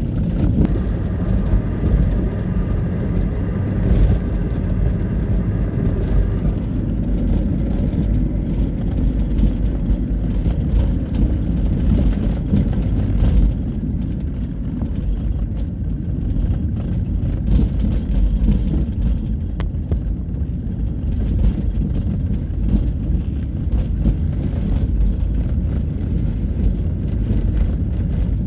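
Heavy trucks and trailers on a highway: a steady low road rumble, with a faint whine during the first few seconds.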